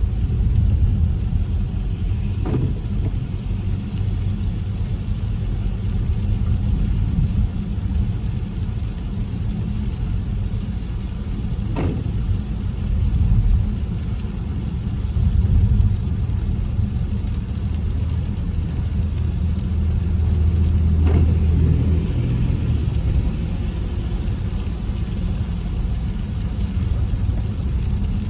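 Car on a rain-wet road: steady low rumble of engine and tyres, with three brief clicks spaced about nine seconds apart.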